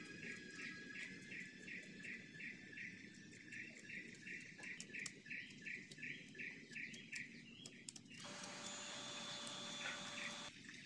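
A small bird chirping from outside, one short high note repeated about three times a second, stopping around seven seconds in. Then a steady hiss with a faint low hum runs for a couple of seconds.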